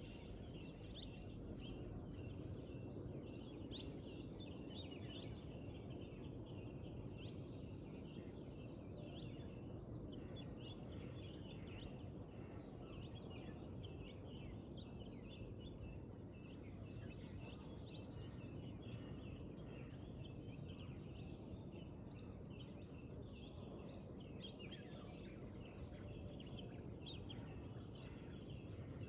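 Morning forest ambience: many small birds chirping and calling in quick short notes throughout, over a steady high insect trill and a low, even background rumble.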